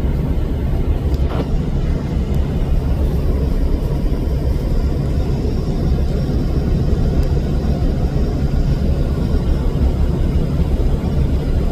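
A car driving along the highway: a steady low rumble of engine, tyres and wind.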